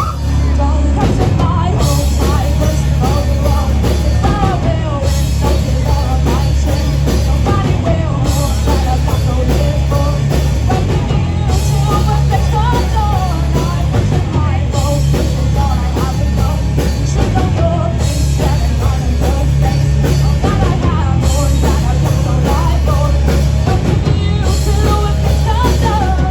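Live rock band playing: drums and bass guitar underneath, electric guitar, and a singer.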